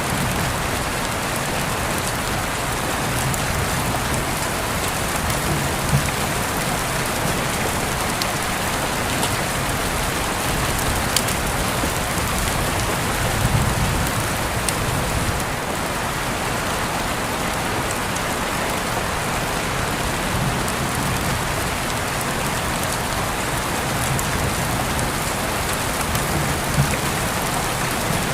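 Steady rain falling, an even hiss with a few sharper drop ticks standing out now and then.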